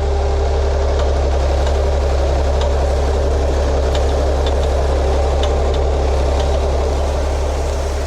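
Tractor engine running steadily under load while its hydraulic lift tries to raise the implement; the tractor has been struggling to lift things lately. A thin steady tone sits over the engine for about the first three seconds.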